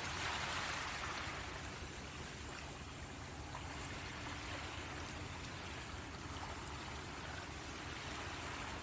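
Small waves washing onto the beach. The wash swells loudest about a second in, then sinks to a softer hiss with gentler surges.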